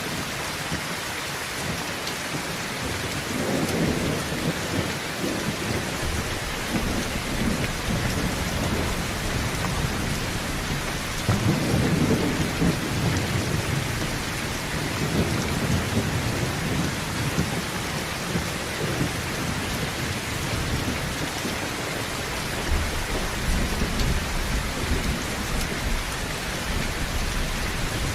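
Heavy rain drumming steadily on a tin roof, with thunder rumbling low several times underneath.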